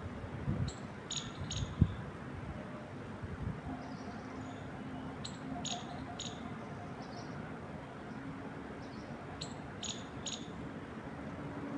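A bird gives a phrase of three or four quick high chirps three times, roughly four seconds apart, over a steady low rumble with a few soft thumps in the first two seconds.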